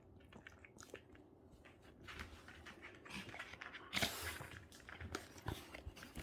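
A dog's soft snuffling and clicking mouth noises, then one short, sharp sneeze about four seconds in.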